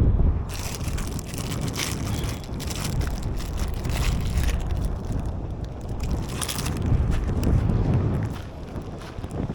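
Wind buffeting the microphone as a steady low rumble, with scattered crunching noises every second or so.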